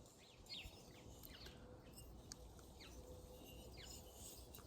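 Faint bird chirps in near silence: a string of short, downward-sliding notes, about one or two a second.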